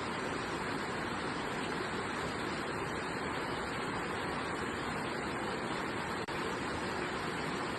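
Steady rain: an even, unbroken hiss of falling water, with a momentary dropout about six seconds in.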